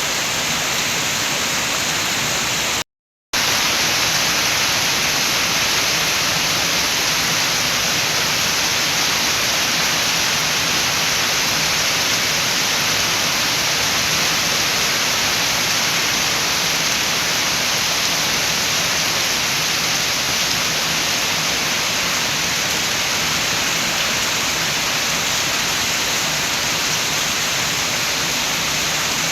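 Rain with wind, a dense, even hiss. It cuts out to silence for about half a second, about three seconds in, then comes back slightly louder.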